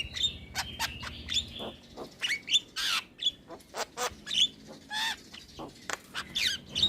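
Jalak kebo (Javan myna) singing: a rapid, varied string of short whistles, sharp chirps and harsh clicking chatter.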